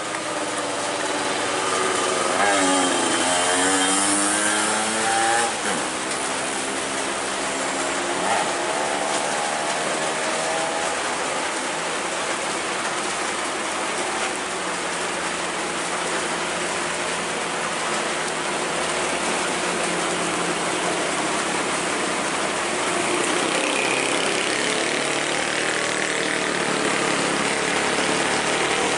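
Truck engine running on a climb, its pitch dipping and rising again a few seconds in and briefly again a little later, then settling into a steady drone with road noise.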